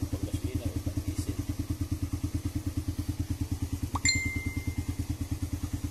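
Suzuki Raider 150 carb-type single-cylinder four-stroke engine idling at an even, rapid beat, run warm to thin the oil before draining it. A brief high ping rings out about four seconds in.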